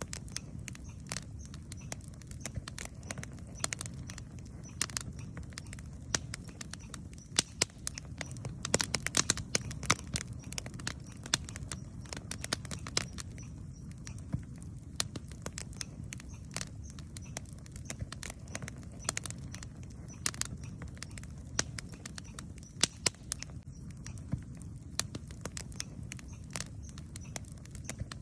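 Wood campfire crackling, with irregular sharp pops that come thickest about eight to ten seconds in, over a steady low rumble.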